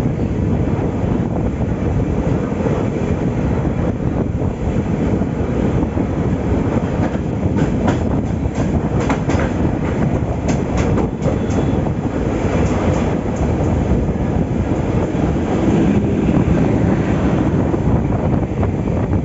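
Passenger train running, heard from on board: a steady rumble from the moving coaches, with a run of sharp clicks from the wheels near the middle.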